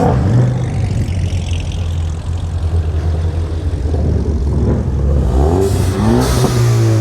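Car engines rumbling as a line of cars drives past, with an engine revving up, rising in pitch, about five to six seconds in.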